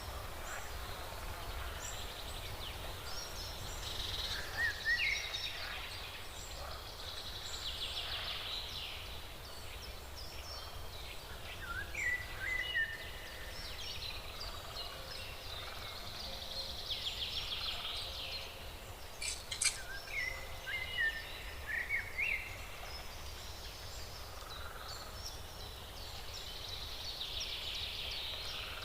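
Wild birds calling over a steady outdoor background: several fast trills and short rising chirps come and go, the sharpest chirps about midway through.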